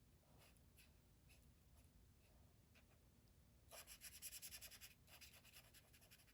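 Faint scratching of a marker colouring in on paper, with a run of quick back-and-forth strokes about four seconds in.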